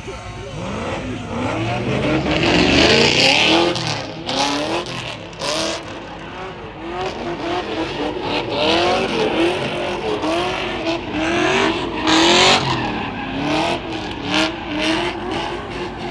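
A car's engine revving again and again in short rising sweeps, with bursts of tyre squeal, as a car spins in a car pit.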